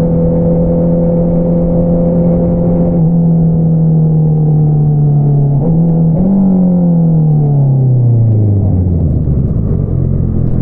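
2022 Honda CBR650R's inline-four engine through an Akrapovič single-outlet exhaust, running at steady revs, then the revs drop away from about six seconds in as the bike slows, settling to a low steady note near the end.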